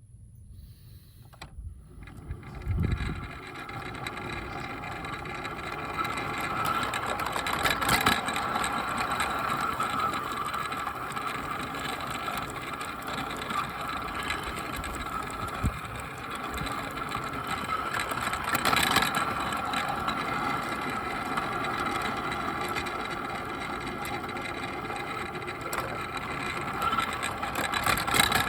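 Bachmann Percy garden-railway locomotive running, its electric motor and gears whining steadily over wheel noise on the track. The whine starts quiet, grows over the first few seconds as the train gets going, and is broken by a few sharp clicks.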